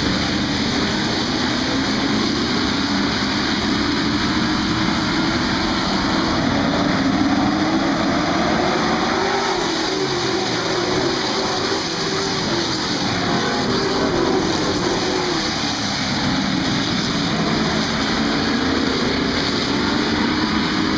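A field of stock car engines running at racing speed, a steady loud drone whose pitch rises and falls as the cars pass.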